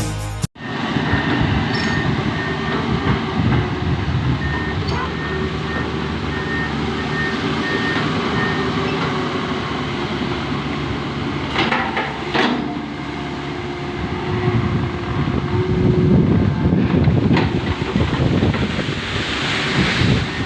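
Excavator working: its diesel engine runs steadily under a dense clatter of metal, with a few sharp clanks and faint squeals. Intro music cuts off about half a second in.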